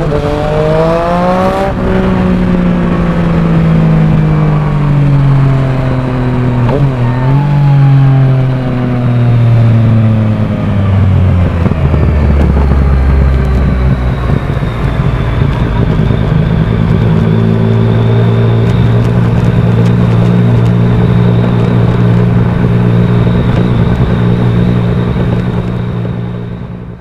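Yamaha Tracer 900's inline-three engine through a Mivv Oval titanium exhaust, revving up and then breaking off sharply about two seconds in, as in a quickshifter upshift. The engine note then falls steadily for about ten seconds and settles into a steady run, with a faint high whine in the second half, before fading near the end.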